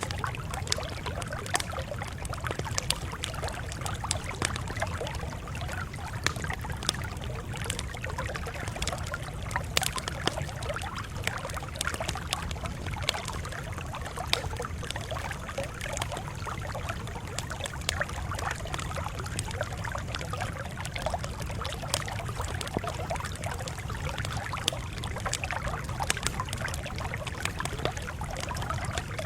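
Campfire crackling, with frequent irregular pops and snaps over a steady low rumble.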